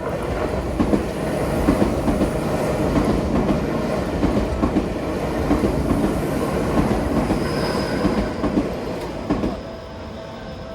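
Tōkyū Ōimachi Line electric train passing over the level crossing, a steady rumble with its wheels clacking over the rail joints. The noise falls away about nine and a half seconds in as the train clears.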